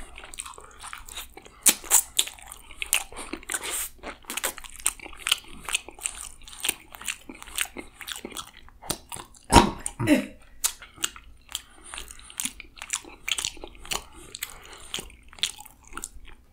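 Close-miked eating of fried chicken wings: a quick, uneven run of crunchy bites, chewing and wet mouth smacks, with one louder crunch a little past halfway.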